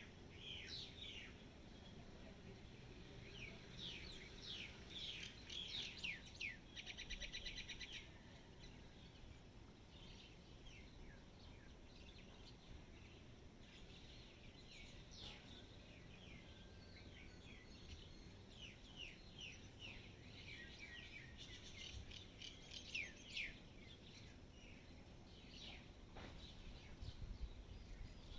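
Faint chirping of small birds: many quick, high calls that drop in pitch, coming in clusters, with a rapid buzzy trill about seven seconds in.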